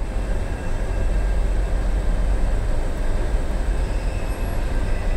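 Railway station soundscape as an electric locomotive, an EP1M, approaches with a passenger train: a steady low rumble with a few faint, steady high-pitched hums over it.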